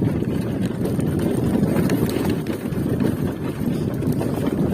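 Steady low rumble of wind buffeting the microphone over a motorcycle running along the road.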